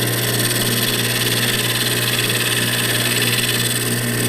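Wood lathe running steadily at about 1,000 rpm: a constant motor hum under a broad hiss that comes up right at the start and then holds even.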